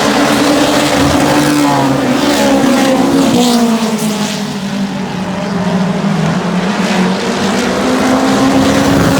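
Race car engines running at high revs as the cars lap the track, the pitch rising and falling, with a sudden drop in pitch about three seconds in.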